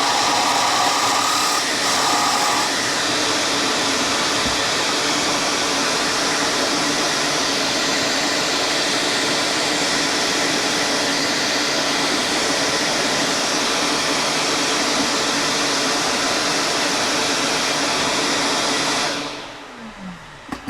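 A motor-driven woodworking machine running steadily, then switched off near the end and spinning down with a falling hum.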